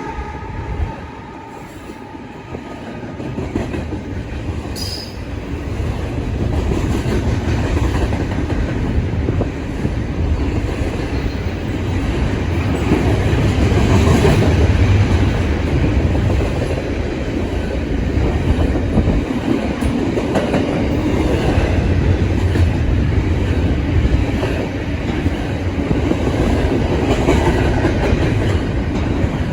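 A train rolling past on the rails, its wheels making a clickety-clack. The sound builds over the first few seconds, then runs loud and steady.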